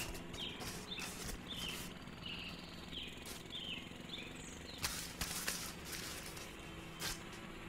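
A bird chirping over quiet outdoor background noise: short, falling chirps about twice a second that stop about halfway through. A few sharp clicks and rustles come in between, the loudest about five seconds in.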